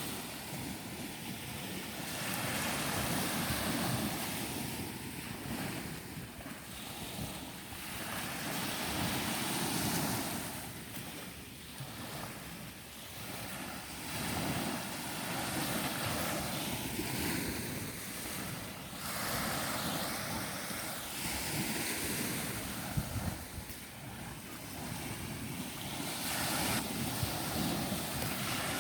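Ocean surf washing onto a beach, swelling and falling away every few seconds, with wind buffeting the microphone.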